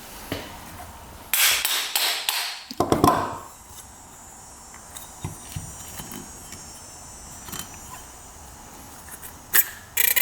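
Small clicks and knocks of tools and metal parts as a Yamaha RD200 carburetor is taken apart, with a cluster of short hissing bursts about a second and a half in and two more near the end.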